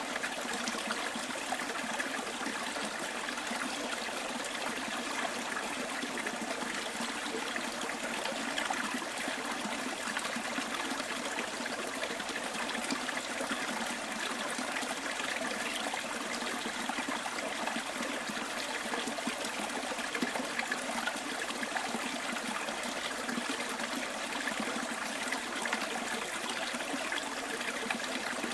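Small stream trickling and babbling over stones in a steady, even flow.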